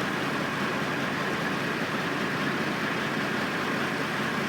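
Steady, even engine noise from construction machinery running at the site, with no distinct knocks or events.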